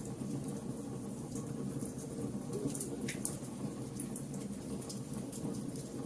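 Fire crackling: a steady low rumble with scattered sharp pops and snaps, a cluster of them about three seconds in.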